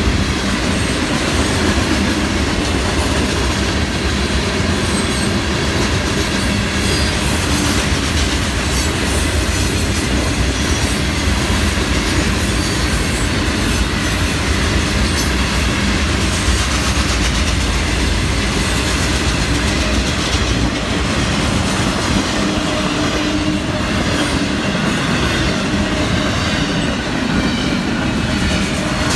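Long freight train of mixed cars rolling past steadily, a loud even rumble with wheels clacking over the rail joints and faint wheel squeal now and then.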